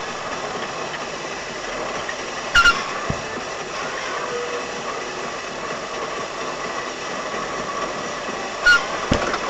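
Steady road and engine noise of a moving car, broken twice, about six seconds apart, by a short sharp knock followed half a second later by a dull thump.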